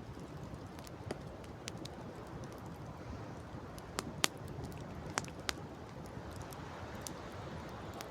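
Campfire crackling, with a handful of sharp pops, the loudest a little after four seconds in, over a steady low background rush.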